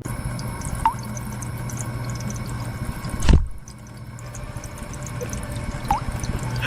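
Water running steadily, with two short rising drip-like plinks about a second in and near the end, and a single thud a little over three seconds in.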